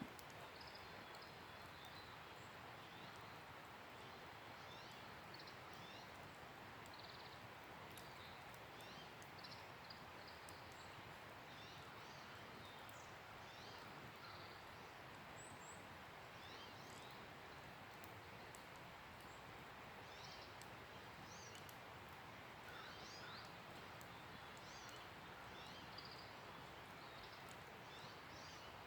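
Faint wood campfire with a steady hiss and scattered small crackles, with many short high chirps going on throughout.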